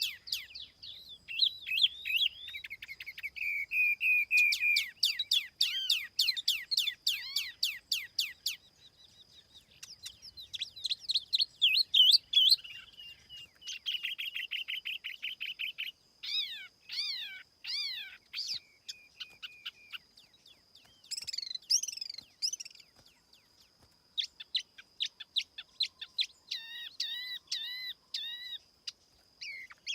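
Tiểu mi songbird singing: fast runs of sharp chirps, warbled phrases and quick repeated notes, broken by short pauses, with a faint steady high tone under the song.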